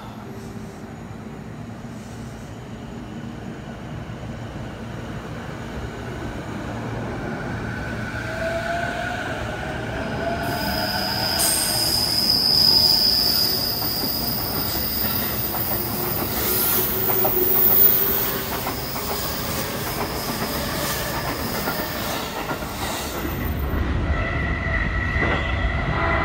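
JR East E233-0 series electric commuter train running alongside a station platform: a steady rumble of the wheels and running gear grows louder, with a rising whine about eight seconds in and a high, steady wheel squeal from about eleven seconds in that stops near the end.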